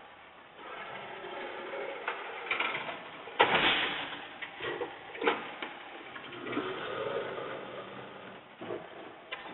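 Mechanical clatter of clicks and knocks, with one loud clank about three and a half seconds in.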